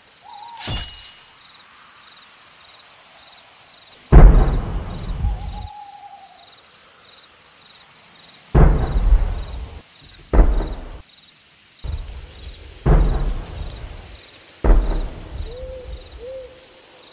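Six deep, loud cannon booms a few seconds apart, each rolling off over about a second: the arena cannon, each shot marking a tribute's death. Between them, owl hoots and a faint steady chirping of night insects.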